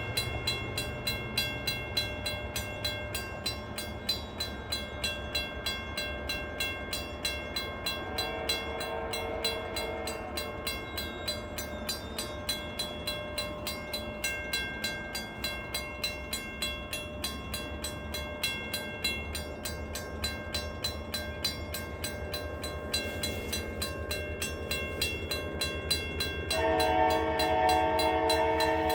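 CPKC Christmas train rolling past, its wheels clicking in a quick, even rhythm over the rail joints. The locomotive horn sounds faintly about a third of the way in, then loud near the end.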